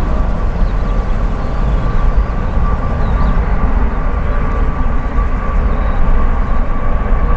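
Jet airliner engines running: a loud, steady low rumble with a thin, steady high whine above it.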